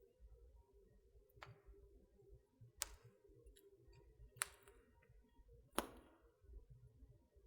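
Wood fire in a fireplace crackling quietly: four sharp pops of burning wood about a second and a half apart, over a faint low rumble.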